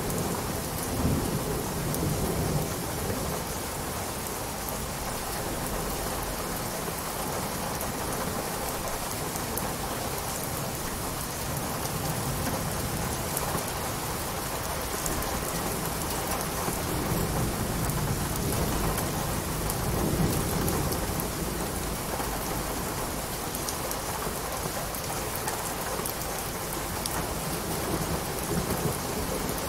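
Steady rain, an even hiss of drops. Low rumbles swell up about a second in and again, longer, past the middle.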